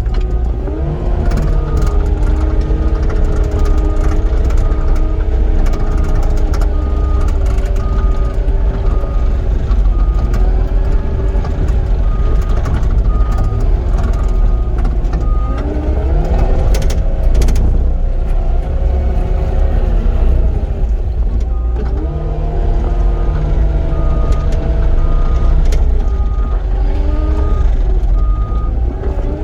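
Cat 259D compact track loader's diesel engine running under load, its pitch rising and falling as the machine works and moves. A backup alarm beeps about twice a second during two long stretches while it reverses.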